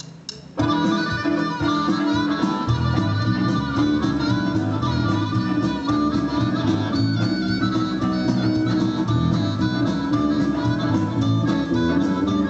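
Blues band playing, with a steady beat, kicking in sharply about half a second in.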